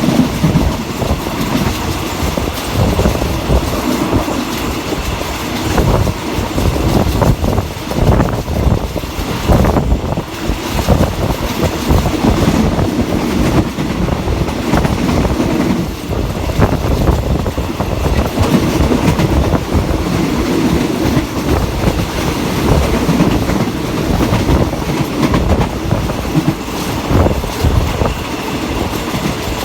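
Passenger train carriages running along the track, a steady rumble with wheels clacking over the rail joints.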